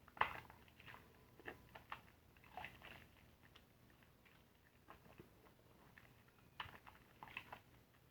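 Soapy car-wash sponge being squeezed and worked: faint, irregular wet squishes and crackles of lather in small clusters, the loudest just at the start.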